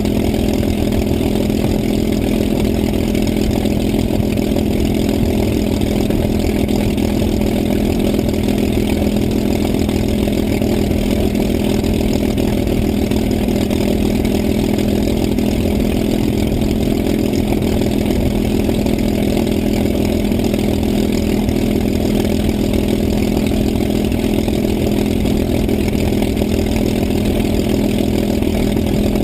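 An engine running steadily at idle: a constant, even hum that does not change in speed or level.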